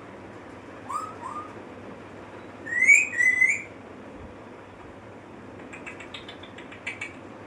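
Pet parrot whistling: two short rising whistles about a second in, then a louder pair of rising whistles around three seconds in, and a quick run of short chirps near the end.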